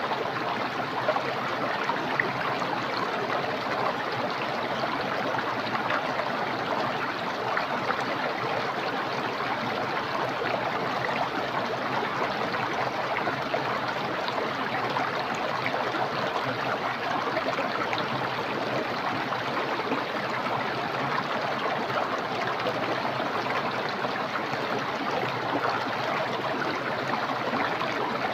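Small, clear, fast-flowing stream rushing and babbling over its bed in a steady wash of water sound.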